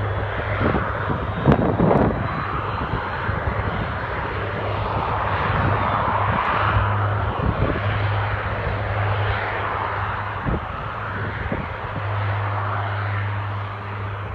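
Lockheed C-130 Hercules's four turboprop engines running: a steady low propeller drone under a rushing roar that swells and fades. A couple of sharp thumps come about a second and a half in.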